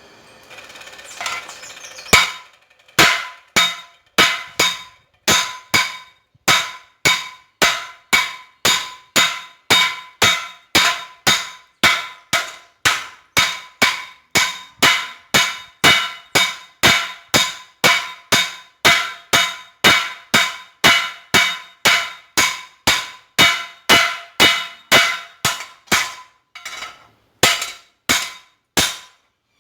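Hammer blows on a red-hot chainsaw guide bar on the anvil, forging it thinner: a steady run of sharp, ringing strikes at about two a second. The strikes begin about two seconds in and pause briefly near the end.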